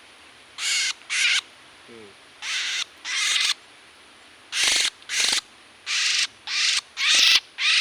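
Oriental magpie-robin (kacer) giving about nine short, harsh rasping calls, mostly in pairs.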